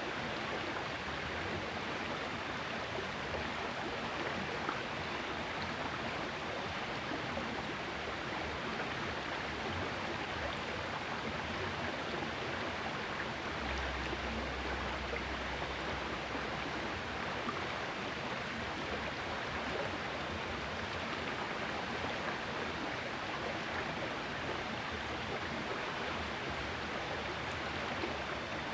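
Small river flowing: a steady rush of running water with no breaks.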